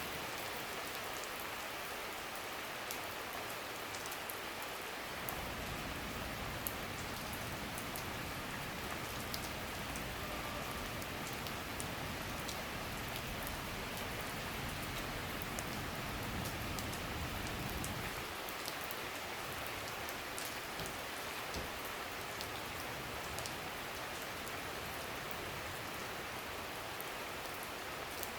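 Summer rain shower falling steadily, with a dense hiss and many small sharp drop ticks. A low rumble sits underneath through the middle stretch, from about five seconds in until about eighteen.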